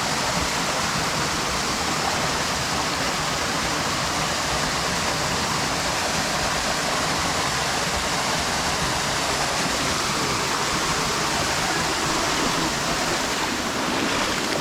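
Steady, loud rush of fast-flowing water from a mountain river and waterfall close by.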